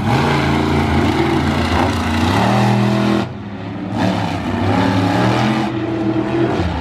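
Big racing engines running hard and revving, their pitch rising and falling. They drop off briefly a little over three seconds in, then pick up again about a second later.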